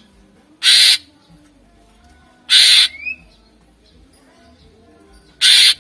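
Cucak ijo (green leafbird) giving three loud, harsh rasping calls, each about a third of a second long and a couple of seconds apart, with a short rising whistle right after the second.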